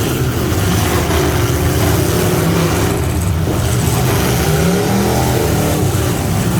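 Half-ton pickup truck engine running hard and loud, its pitch rising and falling repeatedly as the revs swing up and down.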